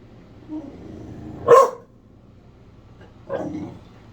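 Puppy barking at her own reflection in the stove door: one sharp, loud bark about a second and a half in, then a softer, longer bark near the end.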